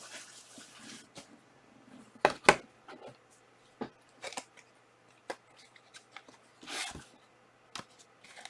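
Trading-card boxes and packs being handled on a table: scattered light taps and clicks, with two sharper knocks in quick succession about two seconds in and a short rustle near the end.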